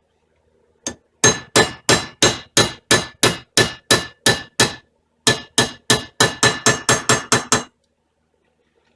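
Hammer striking metal with a slight metallic ring while driving a brake pad retaining pin into a Brembo caliper. One tap, then a steady run of about eleven taps at roughly three a second, a short pause, and another run of about eleven that speeds up before stopping.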